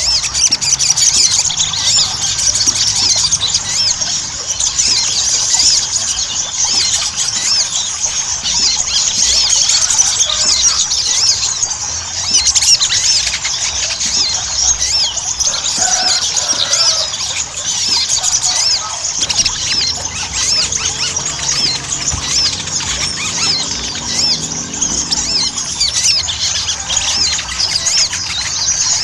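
Sogon (sogok ontong, a spiderhunter) singing vigorously: a dense, unbroken stream of rapid, high-pitched chirps and trills.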